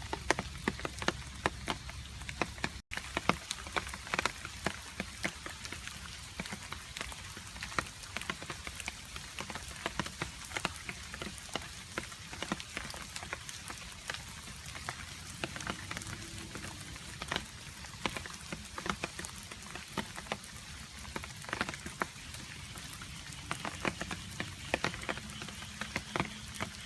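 Rain with water drops striking a hard surface: dense, irregular sharp ticks of individual drops over a steady patter. The sound cuts out for an instant about three seconds in.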